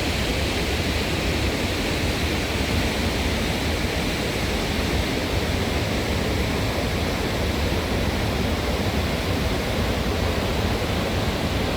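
Steady wind rush and road noise from a Honda Africa Twin motorcycle riding over muddy gravel, with a low rumble underneath.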